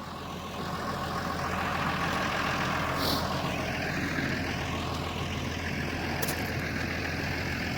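Heavy vehicle engine idling steadily, with a short hiss about three seconds in and a faint click a little later.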